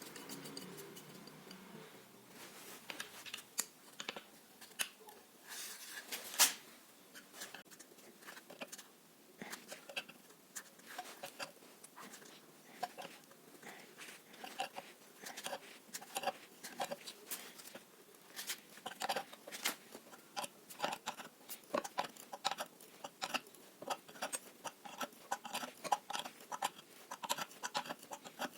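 Faint, irregular clicks and small scrapes of hand work on the drill's metal parts, denser in the second half, with one sharper click about six and a half seconds in.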